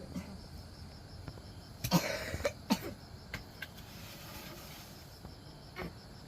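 Insects, such as crickets, chirping steadily in a fast even pulse, with a cluster of short, sharp knocks about two seconds in and another single knock near the end.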